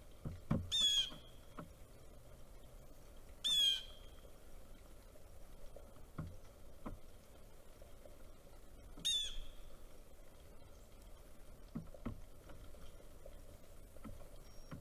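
A bird gives three short, loud calls about a second, three and a half, and nine seconds in. Several soft, low knocks fall between them.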